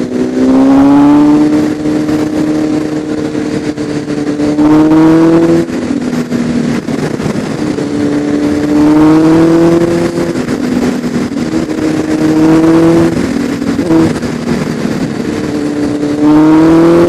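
Inline-four engine of a Honda CBR1000RR Fireblade sportbike accelerating in about four hard pulls. The pitch climbs through each pull and drops back between them as the throttle closes or a gear is changed, over a steady rush of noise.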